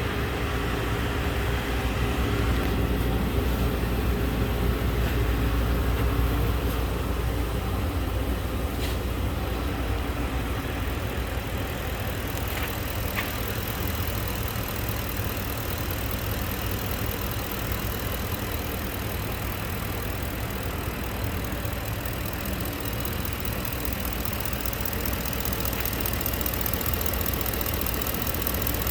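2010 Lincoln Navigator's 5.4-litre V8 engine running steadily at idle.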